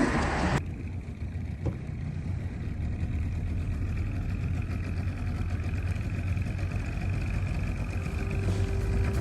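Engine running at a steady speed: a low, even drone with a faint steady whine above it, cutting in abruptly about half a second in.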